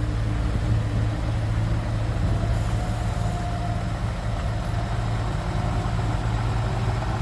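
Heavy diesel engine of earthmoving equipment running steadily with a low, even drone.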